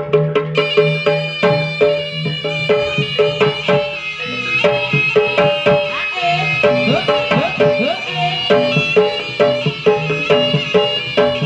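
Jaranan gamelan music: kendang hand drums with strokes that bend in pitch, fast even strokes on tuned metal percussion, and a high wavering melody line over them.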